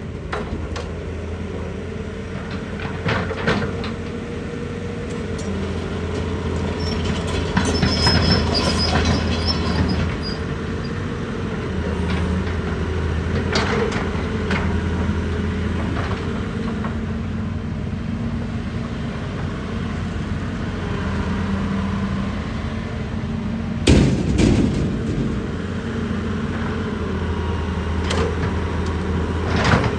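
Excavator's diesel engine running steadily, its pitch shifting slightly as the load changes. Sharp clanks and knocks come now and then, the loudest about 24 seconds in.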